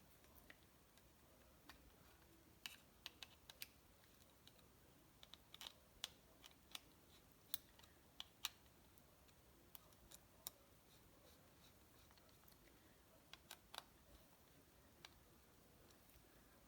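Light, scattered metallic clicks and taps of small screws and a hand tool being handled as reed-valve petal screws are started by hand, at irregular intervals over a quiet room, with a cluster of sharper clicks in the middle.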